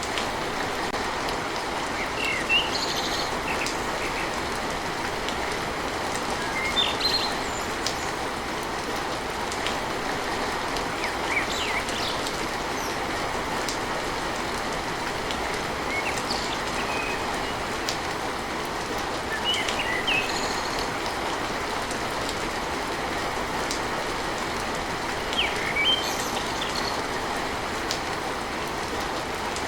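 Steady rain on a tin roof with a few faint drop clicks, and short high bird chirps every few seconds.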